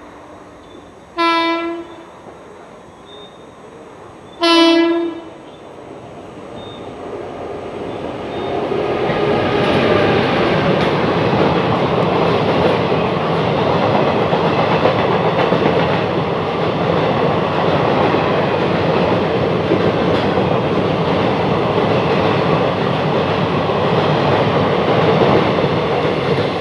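Two short blasts of a WAP-5 electric locomotive's horn, about three seconds apart, the second a little longer. Then the passing express train builds over a few seconds to a loud, steady rush of wheels on rails as it runs through at speed.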